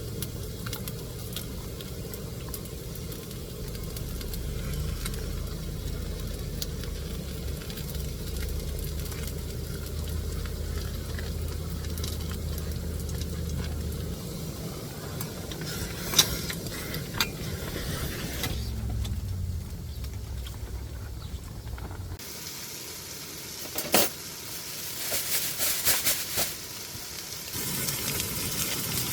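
Food sizzling as it fries, with a few sharp clicks and knocks in the later part. A low rumble under the sizzle drops away abruptly about two-thirds through.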